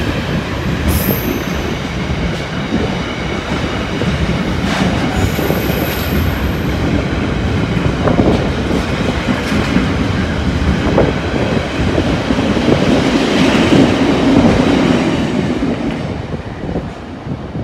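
Container wagons of an intermodal freight train rolling past, a steady rumble and clatter of wheels on the rails with brief high wheel squeals. The sound dies away near the end as the last wagon clears.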